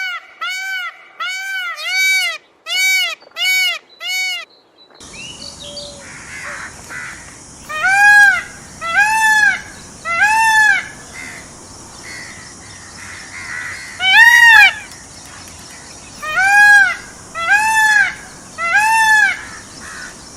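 Peafowl calling: a series of loud, honking calls, each note rising and falling. The calls run rapidly for the first few seconds, then after a sudden change to a hissy background they come in spaced groups of two or three.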